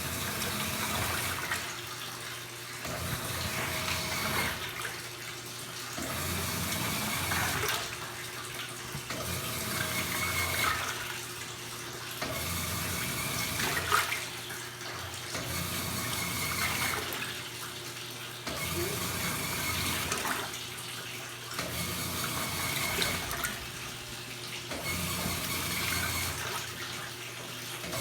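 Washing machines filling with water for the rinse, a steady rush of running water that swells and eases every couple of seconds.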